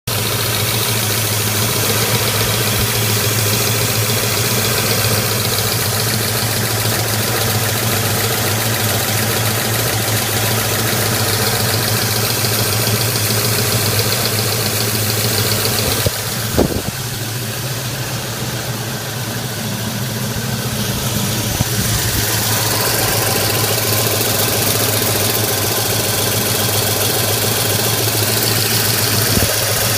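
Ford 351 Cleveland V8 engine running steadily at idle, with the whirring noise that is the fault being shown. A single sharp knock comes a little past halfway. The high whir is then quieter for several seconds before building back up.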